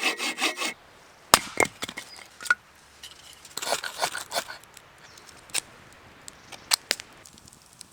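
A saw cutting wood in quick, even strokes that stop under a second in, followed by scattered sharp cracks and knocks of wood, with a short cluster of them in the middle.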